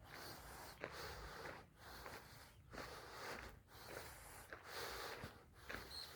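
Footsteps crunching on a garden path at a steady walking pace, the scuffs coming in patches about a second apart. A single faint bird chirp comes near the end.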